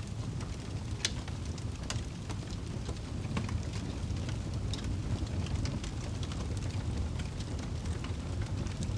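Wood fire in a fireplace crackling, with irregular sharp pops over a steady low rumble of the flames; one louder pop about a second in.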